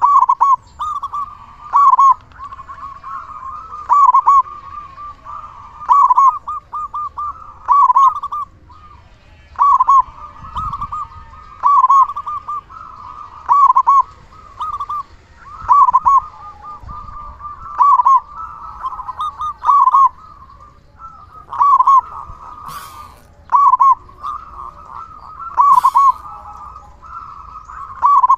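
Zebra dove (perkutut), a local male with a big voice, cooing steadily: its rolling phrase repeats about every two seconds, with softer trilling notes between the phrases.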